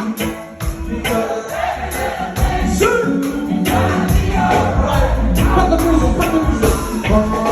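Reggae band playing live: a sung vocal over deep bass and drums, with regular percussion hits keeping the beat.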